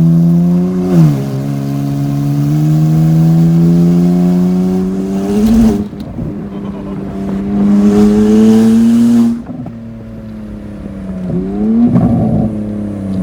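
BMW 335i's N54 twin-turbo straight-six running through a straight-piped exhaust with catless downpipes, pulling through the gears: the note climbs steadily, then drops sharply at each gear change about a second in, near the middle and near the end before climbing again.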